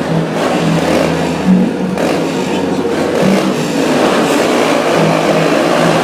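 Stunt motorcycle engines running loud and steady, revving now and then.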